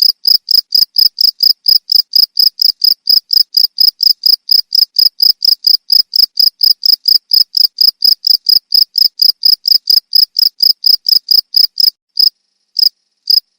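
A cricket chirping, a steady high-pitched pulse about four to five times a second that falters near the end into a few scattered chirps.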